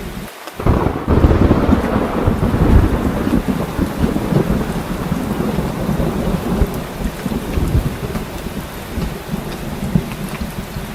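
Heavy rain falling steadily, with a loud rumble of thunder that breaks in about half a second in and rolls on for several seconds, slowly easing.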